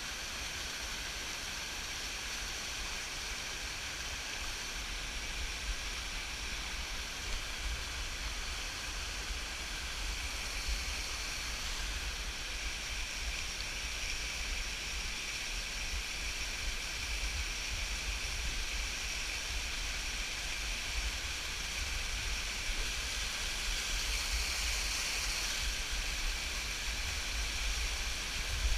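Waterfall: a steady rush of falling water with a low rumble underneath, a little louder near the end.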